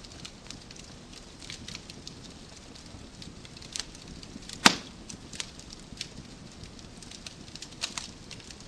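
Wood fire crackling: a steady low hiss with scattered sharp pops and snaps, and one loud pop a little past halfway.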